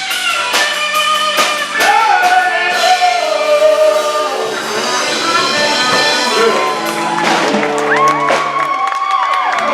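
Live band music with singing: a lead voice over guitar and band, then several voices holding long harmony notes together near the end.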